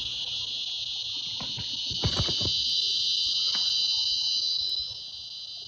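Insects buzzing in a loud, steady high-pitched chorus that eases off near the end, with a few faint knocks about two seconds in.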